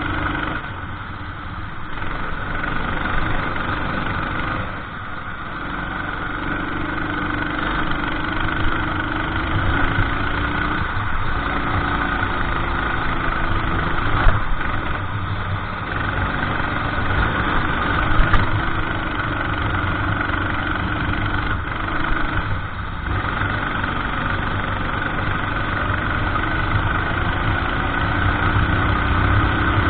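Racing kart engine running through a lap. Its pitch drops briefly about five times as it slows for corners, then climbs again, rising steadily near the end.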